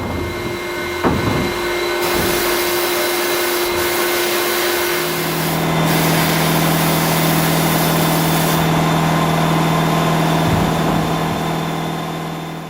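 Steady workshop machine noise: a loud hiss with a motor hum under it, the hum dropping to a lower, stronger tone about five seconds in. There is a short knock about a second in.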